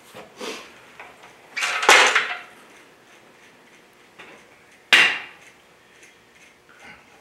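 A bearing shell being pushed and knocked into its bore in a heated engine block: a short metal scrape about two seconds in and a sharp knock about five seconds in, with a few lighter knocks around them.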